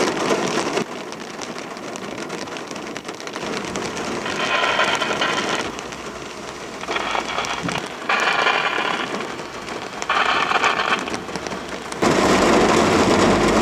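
Heavy storm rain drumming on a car's roof and windscreen, heard from inside the car, with several louder surges about a second long. Near the end the level jumps as the car's engine starts and a low steady hum sets in.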